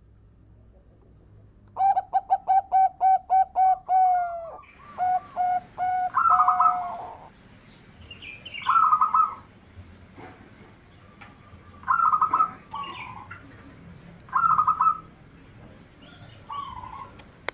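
Zebra dove (perkutut) cooing: a rapid run of about ten staccato notes, then several shorter rolling trilled phrases a few seconds apart.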